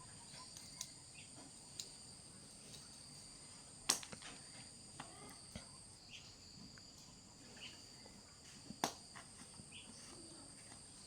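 Steady high-pitched chirring of insects, such as crickets, with scattered light taps and two sharp clicks, about four and nine seconds in.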